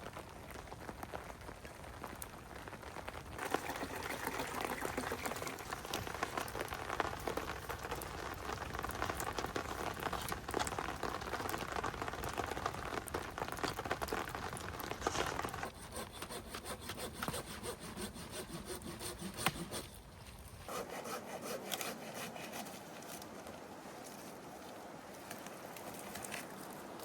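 A hand saw cutting through firewood in steady strokes, starting a few seconds in and stopping about three-quarters of the way through.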